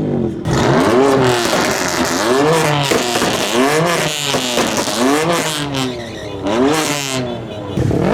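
Car engine revved over and over, its pitch rising and falling about once a second in quick throttle blips.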